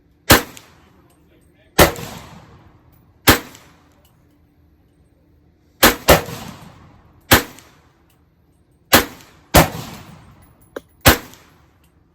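Nine gunshots fired one at a time, mostly a second and a half or more apart, with a quick double shot about halfway through. Each shot has a short echoing tail.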